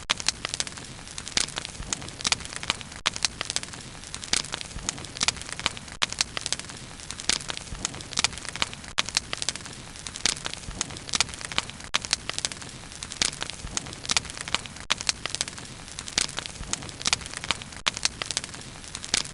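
Wood fire burning, with frequent irregular sharp crackles and pops over a steady low rumble of flame.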